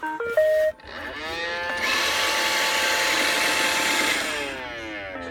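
iRobot Roomba robot vacuum playing a short rising run of beep tones, then its motors whirring up to a steady high whine and winding back down about four seconds in, as it restarts after an error.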